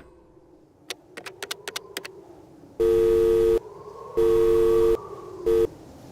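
Telephone sound effect: a sharp click and then a quick run of clicks, followed by a two-note telephone tone that sounds twice for just under a second each and once more briefly, over a faint steady hum.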